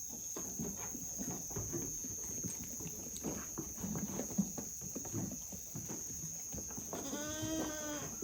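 A goat bleats once near the end, one long call, over soft scattered rustling and knocking from the animals in the pen.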